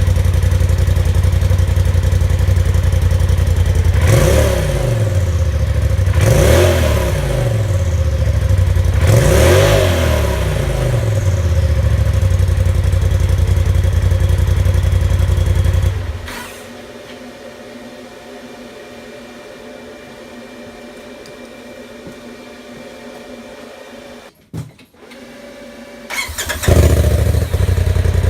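Polaris RZR Turbo engine idling, revved three times in quick blips, then shut off about halfway through. It is started again near the end and settles back to a loud idle.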